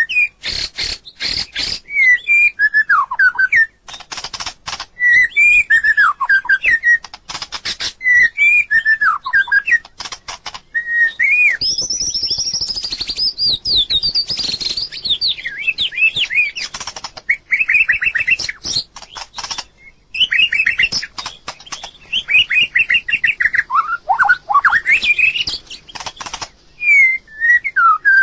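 White-rumped shama singing: a string of varied whistled phrases with rising and falling glides and quick trills, a new phrase every second or two, mixed with sharp clicks.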